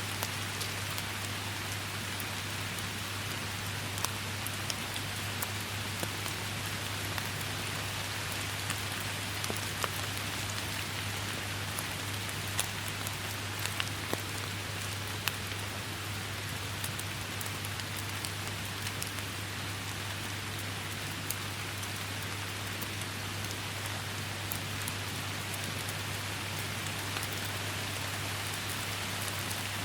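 Steady rain falling, an even hiss dotted with many sharp drop ticks, over a constant low hum.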